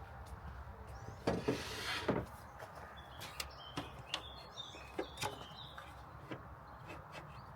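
Faint work sounds of handling wooden ceiling panels: a brief scraping rush about a second in, then scattered light clicks and knocks. Faint bird chirps sound in between.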